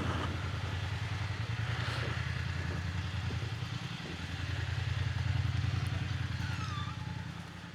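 Motorcycle engine running at low speed with a steady low throb, swelling a little about five seconds in and easing off near the end.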